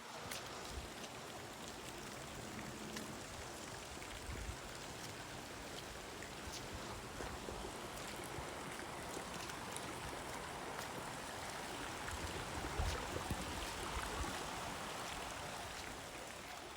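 Stream water rushing in a steady hiss that swells a little past the middle, with a few soft low thumps.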